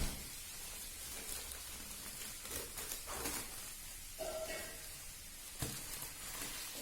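Faint rustling and crinkling of packaging being handled and opened, with a sharp click at the start and a light knock about five and a half seconds in.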